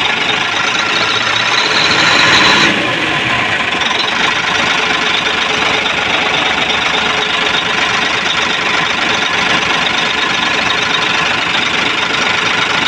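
Hino 700 dump truck's diesel engine running steadily at idle after an airlock in its fuel feed was bled out. It briefly gets louder about two seconds in, then drops back to an even idle.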